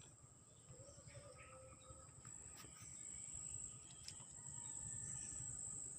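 Faint, steady high-pitched trill of insects such as crickets, with a few faint bird calls.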